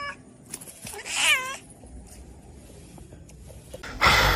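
A domestic cat meows once, a short call about a second in. Near the end there is a loud burst of noise.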